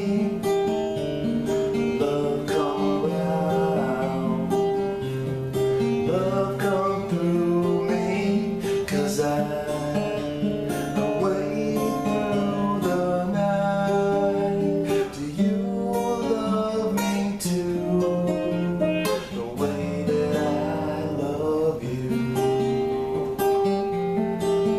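Instrumental break of a song played on acoustic guitar, strummed and picked chords at a steady, moderate volume.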